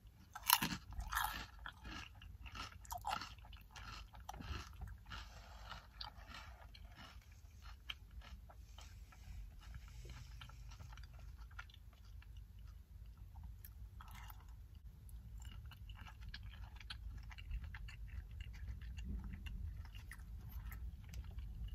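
Close-up chewing and crunching of a crab rangoon, a fried wonton with a creamy filling. Crisp crunches are loudest in the first few seconds, then give way to softer chewing over a low, steady rumble.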